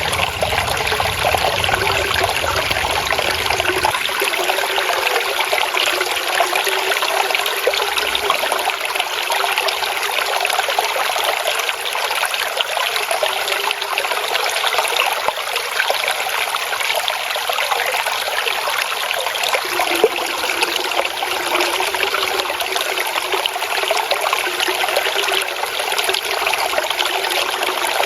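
Flowing water trickling and babbling steadily, like a small stream running over stones.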